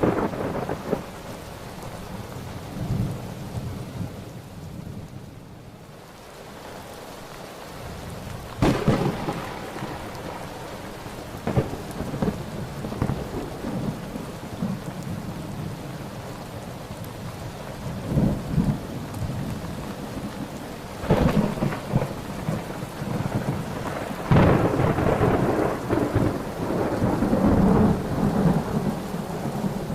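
Thunderstorm: steady rain with claps of thunder. There are sharp cracks about nine seconds in and again past twenty seconds, and long rumbles near the end.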